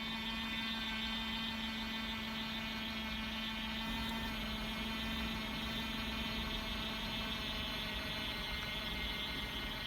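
Small beauty blender washing machine running, its little motor giving a steady hum.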